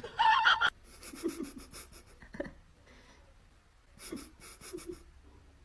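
Quick, quiet rhythmic breathing in two short bouts, after a brief louder sound at the very start.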